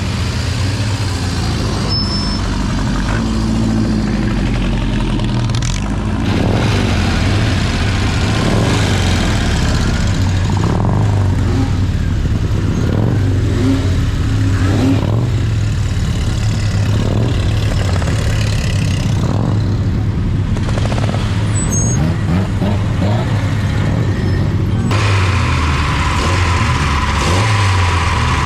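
Engines of vintage racing cars running, a steady low engine note with a noisy mechanical haze over it; the sound changes abruptly twice, about six seconds in and near the end.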